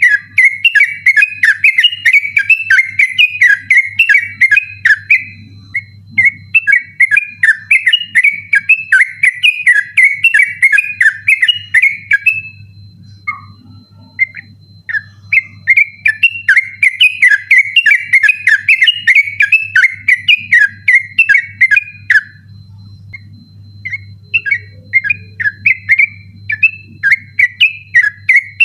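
Yellow-vented bulbul (trucukan) singing a fast, persistent rolling 'ropel' song: long runs of rapid, tumbling whistled notes. Twice the bird breaks off for a few seconds with only a scattered note or two before starting again. A faint steady hum runs underneath.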